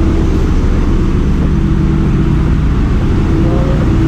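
Loud, steady drone of running machinery in a ship's engine room: a deep rumble with a constant hum over it.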